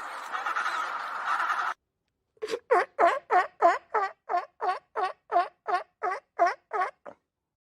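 A bird calling: a run of about fifteen short, evenly spaced calls, about three a second. Before it, a continuous cackling sound stops suddenly.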